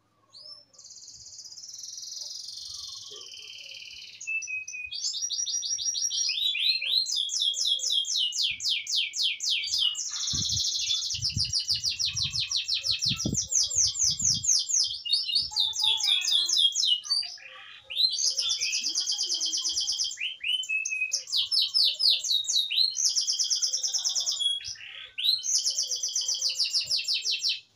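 Domestic canary singing a long, vigorous song of fast trills and rolled, rapidly repeated notes, high-pitched. The song breaks off briefly twice before carrying on.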